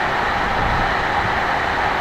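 Wind buffeting the microphone in uneven low rumbles over a steady rushing hiss.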